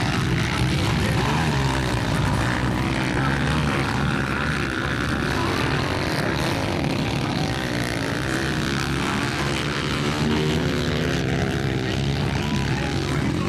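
Motocross bike engines running hard, their pitch rising and falling over and over as the bikes accelerate and slow.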